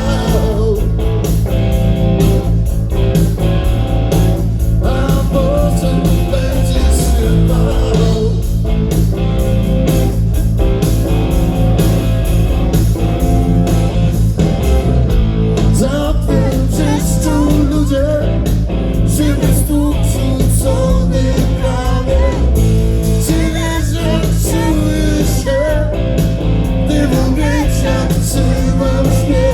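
Blues-rock band music played live: guitar over bass and drums at a steady, loud level, with singing.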